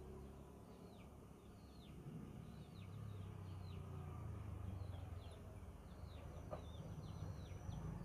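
Faint birds chirping in the background: short falling chirps repeated several times a second, coming more often toward the end, over a steady low hum.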